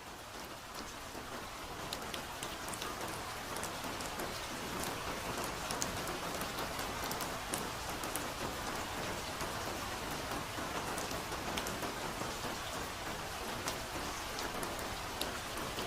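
Soft, steady rainfall, with single drops ticking through the hiss. It swells up over the first couple of seconds, then holds even.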